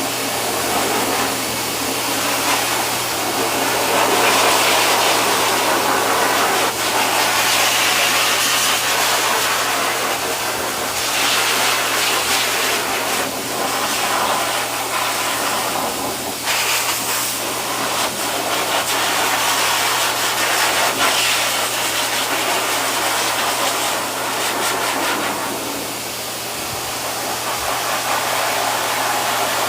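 Pet grooming dryer blowing air steadily, its motor humming underneath. The rush of air swells and fades every few seconds as it is moved over the dog's coat.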